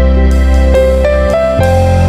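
Background music: soft piano or keyboard melody over a sustained bass, notes changing about every half second.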